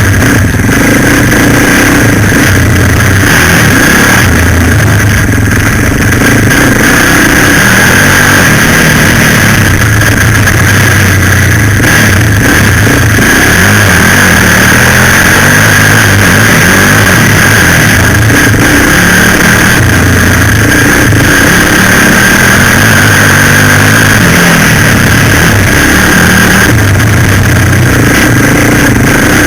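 Suzuki LTZ 400 quad bike's single-cylinder four-stroke engine running hard while ridden. Its note rises and falls again and again with the throttle.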